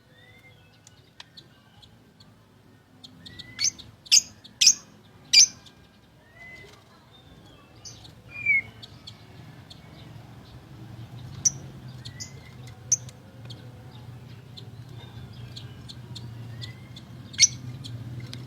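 White-rumped shama (murai batu) singing: short rising whistles broken by sharp, loud notes, with a run of four loud sharp notes about four to five seconds in and single ones later.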